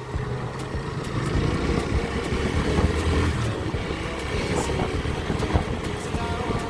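Motorcycle engine running steadily as the bike is ridden, a low hum under road and wind noise.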